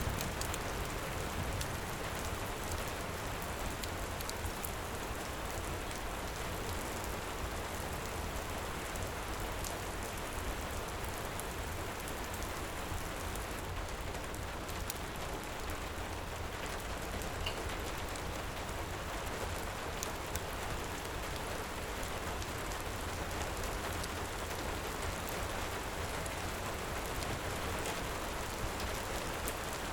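Heavy rain falling steadily, with scattered small crackles from a wood fire.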